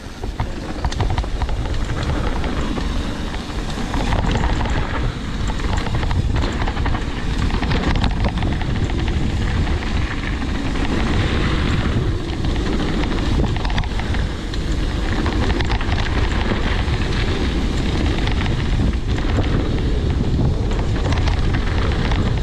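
Wind buffeting the microphone and a steady rumble from a mountain bike riding fast downhill over rough trail, with small irregular knocks.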